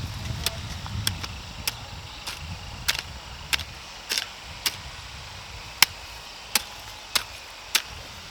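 Sharp chopping strikes from a hand tool in a steady rhythm, a little under two a second. A low rumble runs under the first few seconds.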